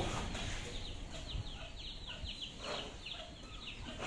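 Small birds chirping: a quick run of short, high chirps, each falling in pitch, several a second, that stops shortly before the end.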